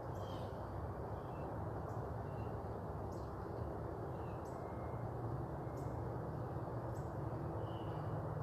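Steady low rumble and hiss, with short, faint bird chirps now and then.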